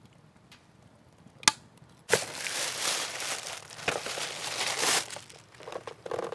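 A single sharp click, then packaging crinkling and rustling for about three seconds as something is unwrapped, with a quieter bout of rustling near the end.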